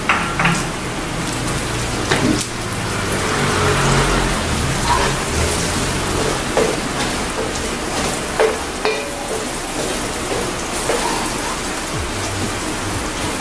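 Garlic, onion and ginger sizzling steadily in hot oil in a metal wok, stirred with a wooden spatula that scrapes and clicks against the pan now and then.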